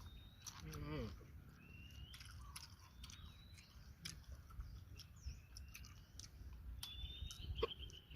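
Faint birdsong, short chirping notes every second or so, over soft chewing and crunching with scattered clicks. A brief vocal sound comes about a second in.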